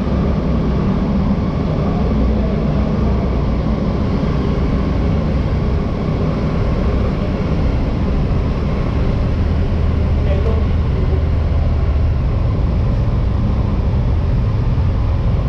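A vehicle in motion, heard from on board: a loud, steady low rumble with no changes in pitch or level.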